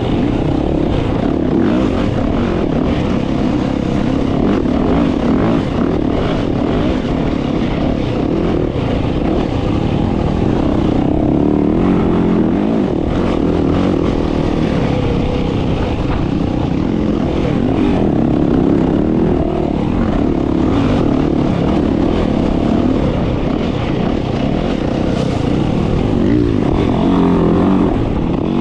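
Dirt bike engine running continuously under riding, its level swelling and easing a little with the throttle.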